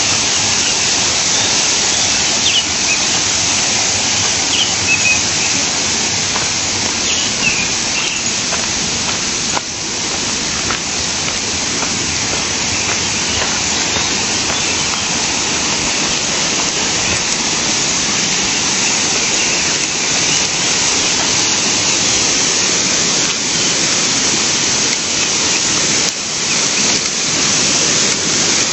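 Steady rush of flowing river water, with a few short bird chirps in the first few seconds.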